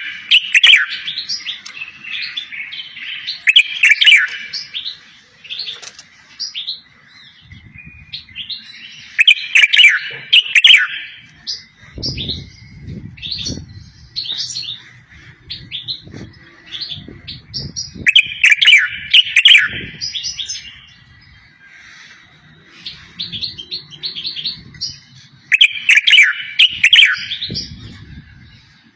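A songbird singing: loud bursts of fast twittering and trilled phrases every seven to nine seconds, with scattered single high chirps between them. This is the kind of song recording played to goldfinches and canaries to teach them a song.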